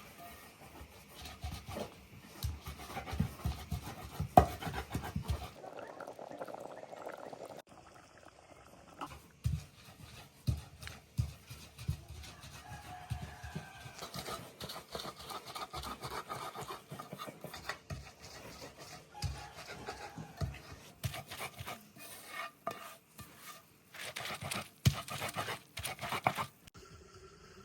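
Kitchen handling sounds of cooking: utensils clinking and scraping against pots and dishes as food is stirred, in scattered irregular clicks and knocks.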